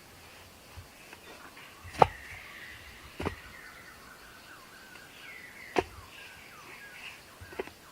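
Birds calling in short chirps that glide down in pitch, with four sharp clicks or knocks spread through; the loudest click is about two seconds in.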